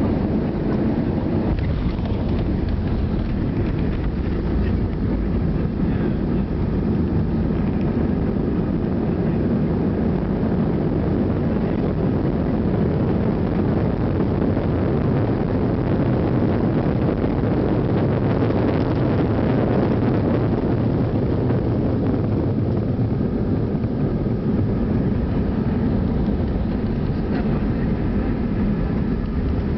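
Steady engine and airframe rumble inside the cabin of an Airbus A320 rolling on the ground after landing.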